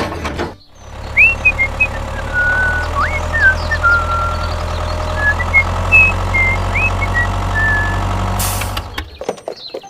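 Steady low rumble of a tractor engine running, starting about half a second in and stopping shortly before the end, with a run of short high whistled chirps over it.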